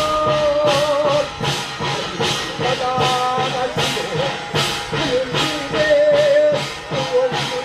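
Korean shamanic ritual (gut) music: drums and cymbals striking a steady beat, about two strokes a second, under a held, wavering melody line.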